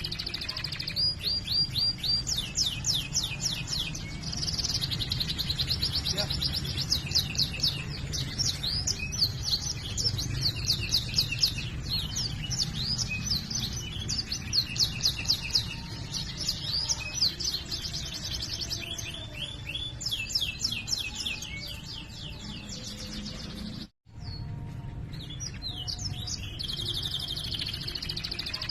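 Domestic canary singing a fast, continuous song of rolling trills and rapidly repeated high chirping phrases over a low steady hum. The song briefly cuts out about 24 seconds in.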